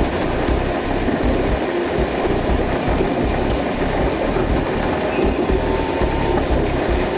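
Osaka Metro New Tram, a rubber-tyred automated guideway train, running along its track: a steady, dense rumble of rolling noise, with a faint thin whine for a moment about five and a half seconds in.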